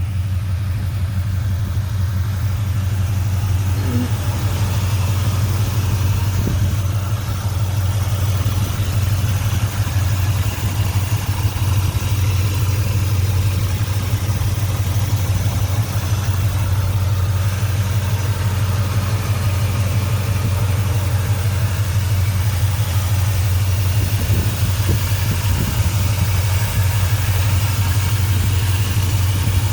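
1972 Chevrolet C10's 406 V8 idling steadily.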